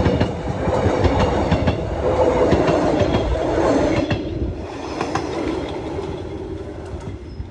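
Passenger train coaches rolling past at close range, steel wheels rumbling and clattering over the rails. About four seconds in the sound drops abruptly to a fainter rumble of the train moving away.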